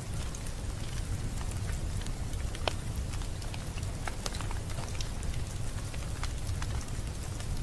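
Wood fire crackling in a fireplace: many irregular sharp pops and snaps over a steady low rumble of flame.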